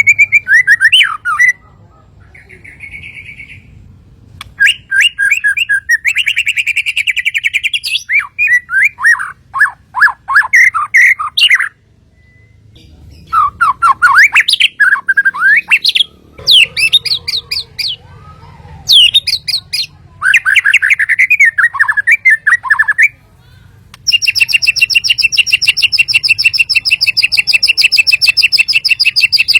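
Bornean shama (murai batu Kalimantan) singing loud phrases of quick whistled notes, each phrase a few seconds long with short pauses between. Near the end it goes into a long, fast, even trill of rapidly repeated notes.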